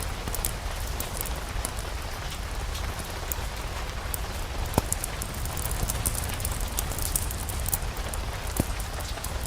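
Steady rain with a low rumble beneath it and scattered small crackles and ticks. Two sharper pops come about five and eight and a half seconds in, like wood popping in a fireplace.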